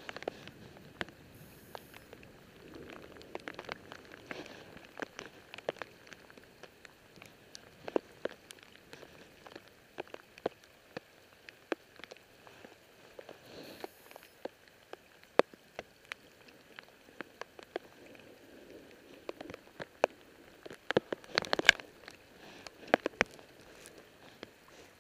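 Rain falling, a faint hiss under irregular sharp ticks of close drops, which bunch together about 21 seconds in.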